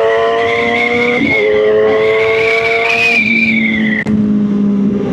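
Kawasaki ZX-10R's inline-four engine running hard under acceleration, its pitch climbing slowly, with a brief break for a gear change about a second in. About three seconds in the revs drop to a lower, steadier note as the throttle comes off.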